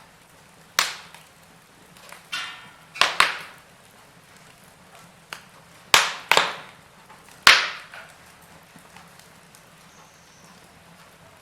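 Wood fire in a fireplace crackling: about eight sharp pops and snaps in the first eight seconds, one with a short fizz about two seconds in, then only faint crackle.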